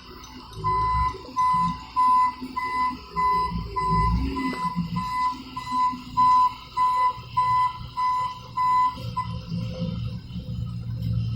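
Caterpillar 226B skid steer's electronic warning beeper sounding in a steady series of short, even beeps, about two a second, then stopping about nine seconds in, over a low rumble from the machine.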